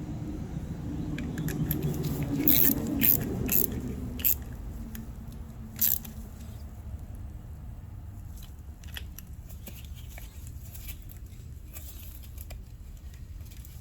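A few sharp metallic clicks and knocks from hand tools working the starter's bolts. They come in a group about three seconds in and once more near six seconds, over a low steady rumble and light handling noise.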